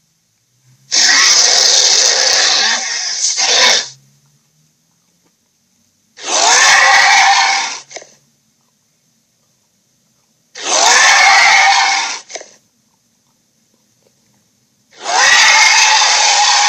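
Electronic dragon toy playing its recorded sound effect through a small speaker, four times in bursts of about two to three seconds with short silent gaps between.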